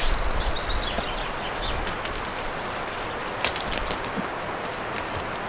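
A bird's short, high chirps in the first two seconds, over a steady hiss. A few sharp clicks come about three and a half seconds in.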